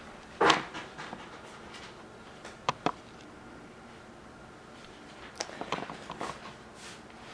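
Plastic Lego pieces being handled: a short rustling bump about half a second in, two sharp clicks near the middle, and a cluster of small clicks and knocks near the end.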